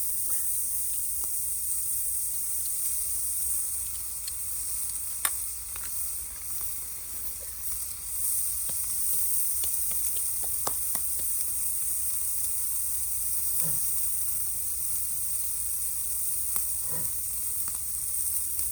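Food sizzling in a pan over a wood gas stove: a steady high hiss with scattered sharp pops and crackles, a few louder ones about five seconds in and again around ten, fourteen and seventeen seconds.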